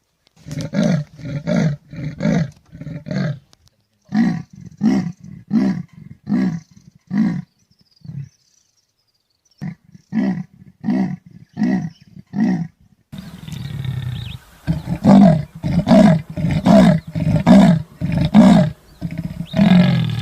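A big cat calling in a series of deep, evenly spaced grunting roars, about one every 0.7 seconds. The roars come in several bouts separated by pauses. From about two-thirds of the way through, they sit over a steady background hiss.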